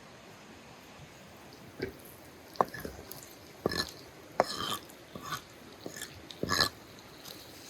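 Someone eating roast chicken: irregular sharp crunches and clicks of biting and chewing, several seconds apart at first and then closer together.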